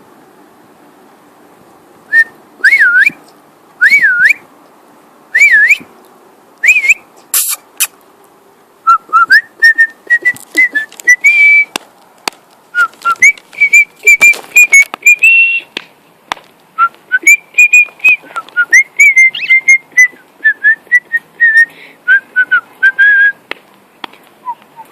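Cockatiel whistling: a few separate swooping whistle notes, then from about nine seconds a fast, continuous run of short chirping whistles.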